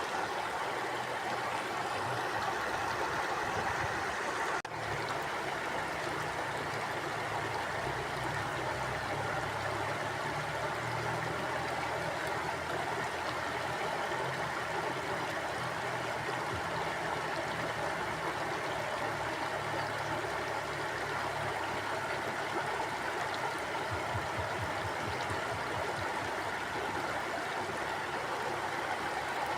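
Mountain stream flowing steadily over its bed, a constant rush of water with a brief dip about five seconds in.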